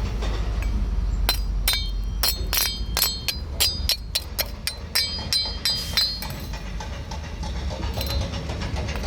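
A quick series of about fifteen sharp metallic strikes, each with a brief ring, over a steady low rumble. The strikes start about a second in and stop about two thirds of the way through.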